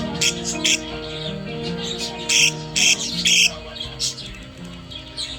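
Budgerigar chirping in short, high bursts over background music with sustained notes. The chirps come several times in the first second, then three loud ones between about two and three and a half seconds in.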